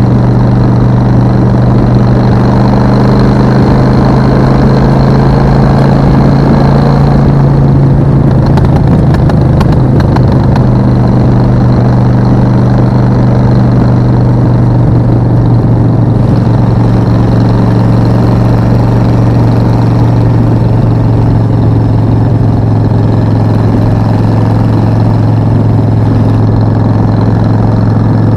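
Suzuki VS1400 Intruder's big V-twin engine running steadily, its low note dropping slightly about seven seconds in, with a few clicks around the change.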